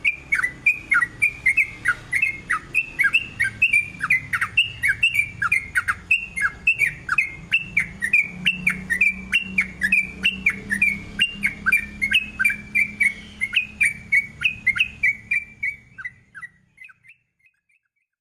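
Yellow-vented bulbul (trucukan) singing a long, fast run of chirping, sweeping notes, three to four a second, without a break. Near the end the song fades out and stops.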